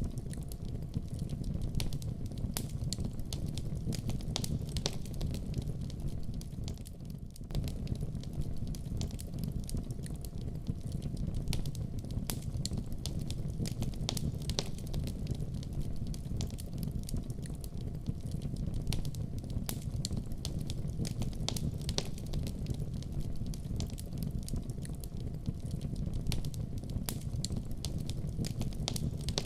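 Fire in a fireplace crackling, with frequent sharp pops and snaps over a steady low rumble. It drops briefly quieter about seven seconds in.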